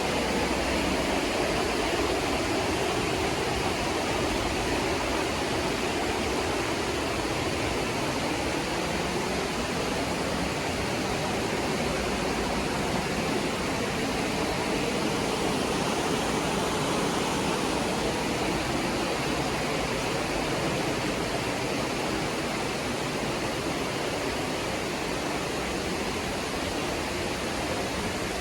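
Steady rush of water from a mountain waterfall, an even, unbroken noise.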